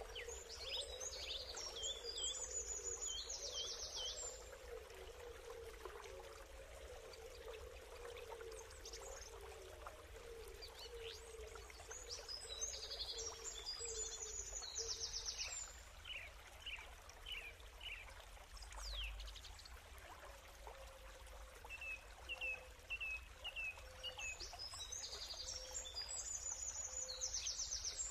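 A songbird singing a high, fast, trilling phrase three times, about twelve seconds apart, with short chirps in between, over a faint steady background hiss.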